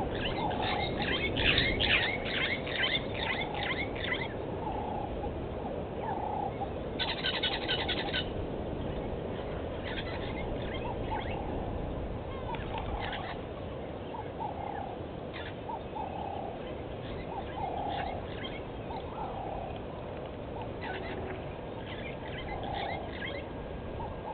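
Wild birds calling: bursts of rapid chattering chirps, loudest in the first few seconds, alternate with short lower calls repeated every second or so. A steady low hiss runs underneath.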